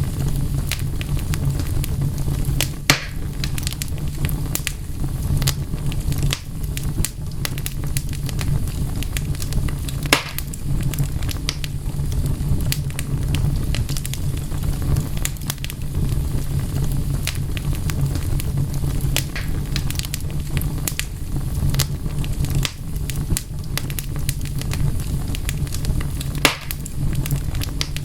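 Wood fire crackling: a steady low rumble of burning with many small snaps throughout and three louder, sharper pops.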